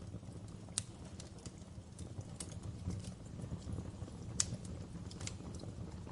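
Wood fire crackling in a fireplace: a steady low rumble of flame with irregular sharp pops and snaps, the loudest about a second in and again past the four-second mark.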